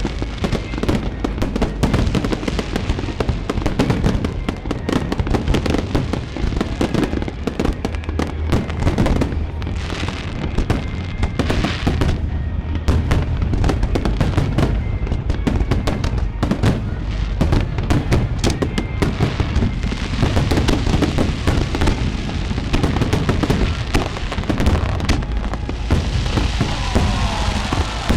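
Fireworks display: a dense, unbroken barrage of bursting shells and crackles over deep booms.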